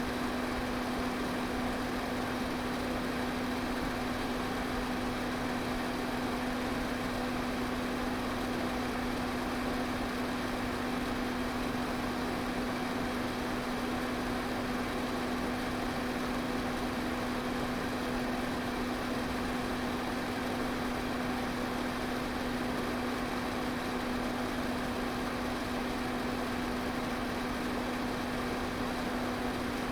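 Electric pedestal fan running steadily: an even rush of air with a constant low motor hum underneath, unchanging throughout.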